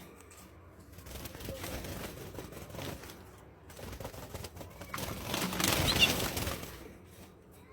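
Canaries fluttering and flapping their wings in irregular rustling bursts, loudest from about five to six and a half seconds in.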